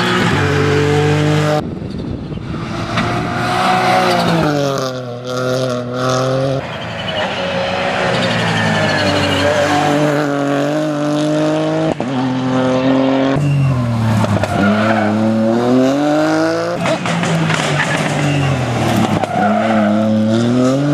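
Rally car engine driven hard, its pitch climbing under acceleration and dropping sharply several times on lifts and downshifts, with tyres squealing.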